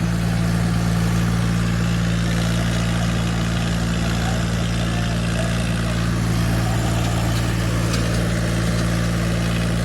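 Swaraj tractor diesel engines running at steady high revs under load in a tug-of-war pull, the pitch held level after revving up.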